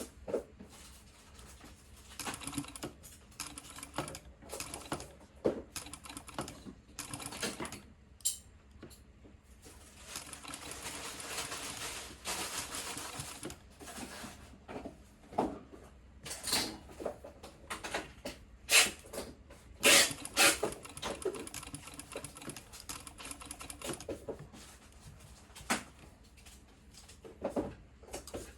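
Sewing machine stitching binding through a binder attachment in stop-start bursts of varying length, with one longer run of a few seconds near the middle. Several sharp clacks come between bursts in the second half.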